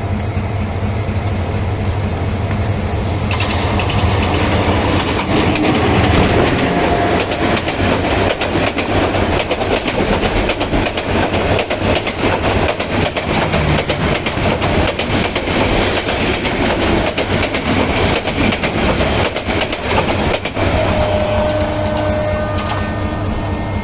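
Passenger express train passing at speed. A steady low drone gives way, about three seconds in, to a dense, continuous clatter of wheels over the rail joints as the coaches go by, easing back toward a steadier drone near the end.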